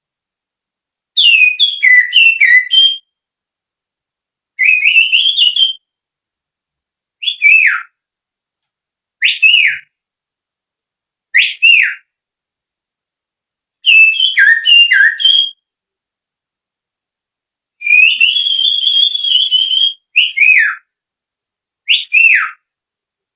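Finger whistling imitating sirtu birdsong: short phrases of clear, high whistled notes with quick downward slurs, separated by pauses, with one longer warbling phrase near the end.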